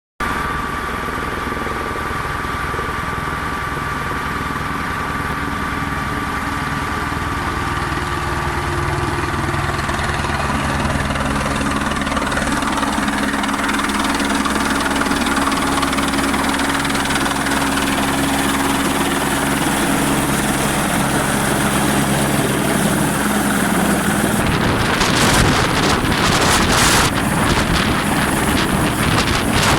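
Helicopter running with a steady engine and rotor hum that slowly grows louder. About 24 seconds in, the humming tones drop away and a louder rushing noise with irregular surges takes over.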